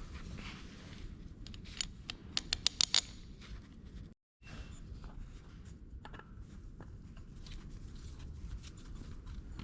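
Light metallic clicks and taps from parts and tools being handled while a pump is fitted to a tractor engine, with a quick run of sharp clicks about two to three seconds in and scattered faint ones later.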